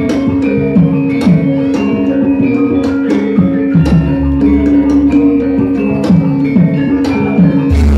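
Javanese gamelan ensemble playing wayang music: bronze metallophones ringing in held tones over steady drum strokes, with a deep low gong-like note swelling in about halfway and again near the end.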